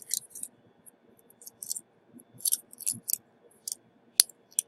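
Irregular light clicks and scrapes of small tools and parts being handled on an electronics repair bench. The sharpest click comes about four seconds in.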